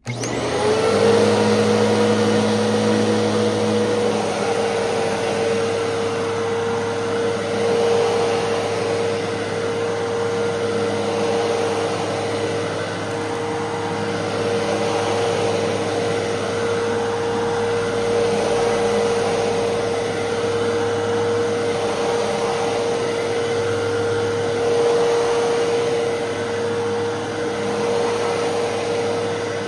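Fantom Fury 10-amp upright vacuum cleaner switched on, its motor spinning up to a steady high whine within the first second, then running on evenly. The motor sounds smooth, in good running order with a replaced belt and a reworked brush roll.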